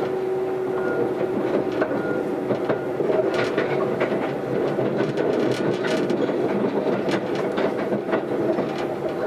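Running sound heard inside a Keisei AE100 series limited-express car at speed: a steady rolling rumble with irregular clicks and knocks from the wheels over the track, and the weak air-conditioning fan running underneath. A steady hum fades out within the first couple of seconds.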